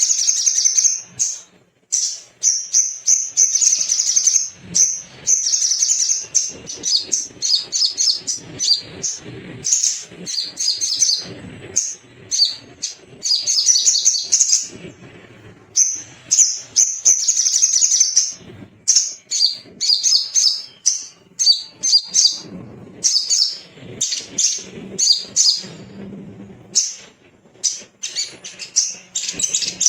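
Brown-throated sunbird (sogon, sogok ontong) singing loudly in rapid high chirps and twittering trills. The song comes in quick bursts broken by brief pauses.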